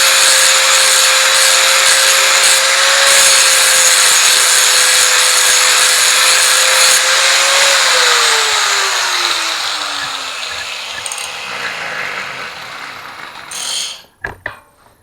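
Angle grinder grinding metal, a steady whine over the rasp of the disc. About eight seconds in it is switched off and the whine falls away as the disc spins down, followed by a few knocks near the end.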